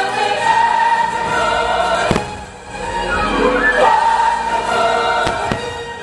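Fireworks show soundtrack of a choir singing over music, with sharp firework bangs cutting through: one about two seconds in and two in quick succession a little after five seconds.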